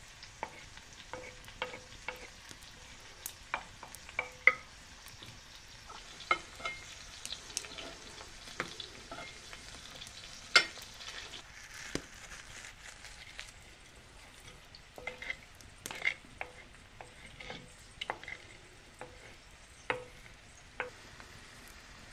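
Food frying in a hot pan: a low sizzle broken by many scattered sharp pops and crackles, two of them louder, at about four and ten seconds in.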